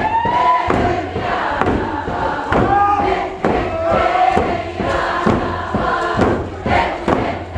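A large group of voices singing a Tlingit song together in unison chant, with scattered thumps under the singing.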